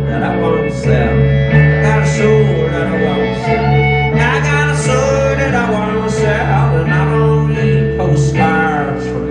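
Live band music: guitar playing over a steady bass line.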